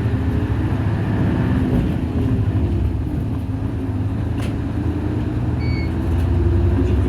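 Diesel engine of a Nissan Diesel KC-UA460LSN city bus running, a steady low drone heard from aboard the bus. There is a single click about four and a half seconds in.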